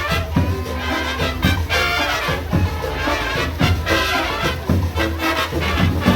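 Marching band playing Latin music with brass, trumpets and trombones, over a steady drum beat.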